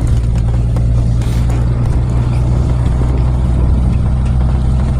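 Truck engine and road noise heard inside the cab while driving: a steady low drone.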